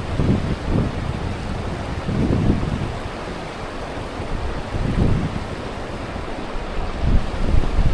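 Strong wind buffeting the microphone in uneven low rumbling gusts.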